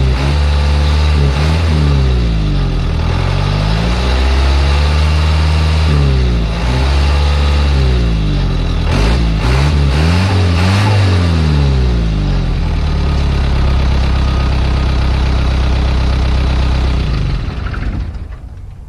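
Isuzu 4BD1T four-cylinder direct-injection turbo diesel, warmed up and running after a restart: revved up and down several times, then settling to a steady idle, the sound falling away near the end.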